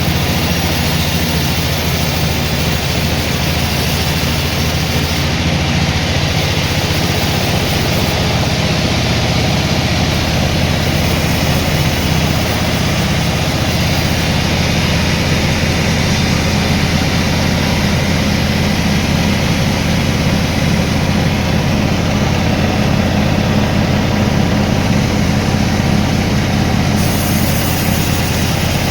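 Sawmill machinery running steadily, a constant low engine-like drone with no pauses.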